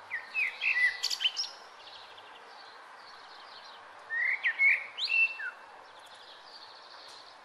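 Birds chirping: two clusters of short, quick chirps, the first at the start and the second about four seconds in, over a steady background hiss.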